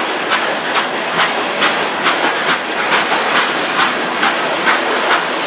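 Freight cars, tank cars and a covered hopper, rolling past. Their steel wheels click over the rail joints about two or three times a second over a steady rolling noise.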